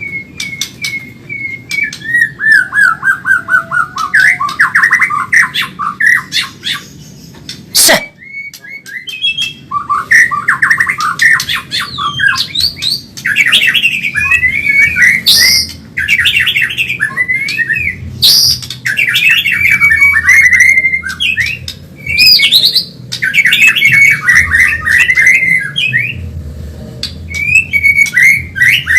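White-rumped shama (murai batu Medan) singing fast and in full song, in bursts of quick warbled and chattering phrases broken by short pauses, with sharp clicking notes mixed in. There is one loud sharp click about eight seconds in.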